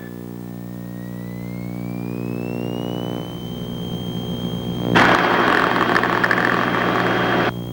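Piper Seneca's twin piston engines coming up to takeoff power, heard through the cockpit intercom: a steady drone with a whine that rises over about two seconds and then holds. About five seconds in, a loud burst of hiss comes in and cuts off suddenly after about two and a half seconds.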